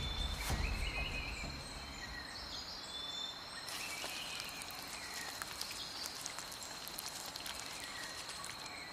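Rainforest ambience: a steady high-pitched insect drone with short chirping bird calls over it. A busier crackle of ticks joins about four seconds in.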